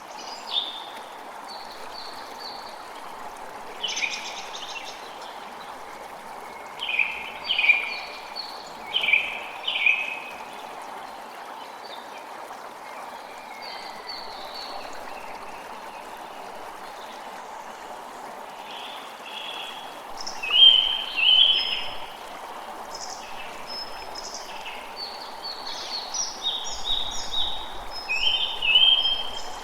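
Creek water running steadily, with songbirds calling in short repeated phrases over it; the bird calls come in clusters several times.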